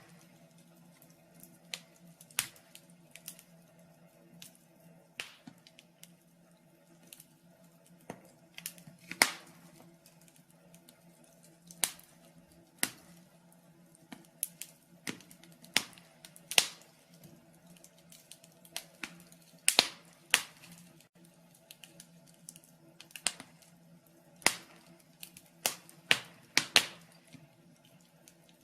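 Wood fire in a fireplace crackling: sharp, irregular pops and snaps, one to three a second, over a faint steady low hum.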